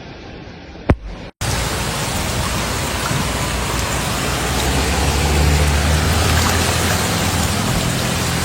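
Loud, steady hiss of heavy rain, starting abruptly after a short break about a second and a half in, with a low steady hum building underneath in the second half.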